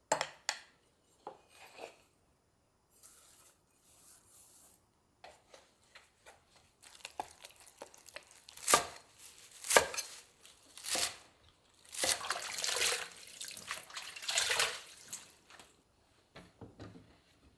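Kitchen food-prep sounds: irregular knocks and clicks on a counter or cutting board, with a denser stretch of noisy handling about twelve seconds in.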